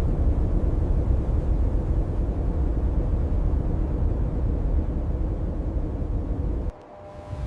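Steady, deep roaring rumble of blizzard wind that cuts off suddenly near the end.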